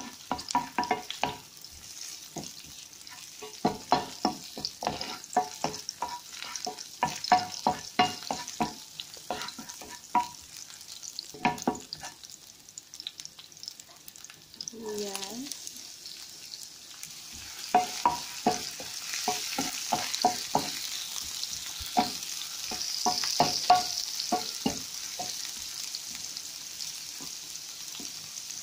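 Chopped garlic sizzling in oil in a frying pan, with a wooden spatula stirring and tapping against the pan in quick irregular strokes. The sizzle grows louder in the second half as chopped red onion goes into the pan.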